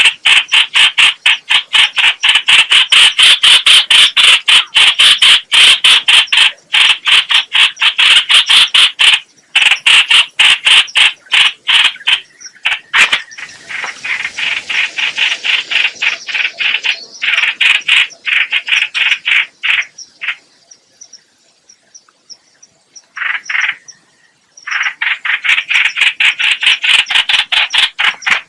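Trao trảo (chao chảo) bird calling, played as a trapping lure: a fast, loud string of harsh chattering notes that stops for a few seconds about two-thirds of the way through, then starts again. Fainter high ticking notes run under it from about halfway.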